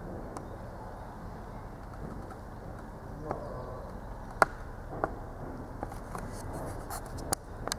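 Wood fire crackling in a fireplace: a low steady rush of burning with scattered sharp pops, the loudest about halfway through, and a brief wavering tone a little before it.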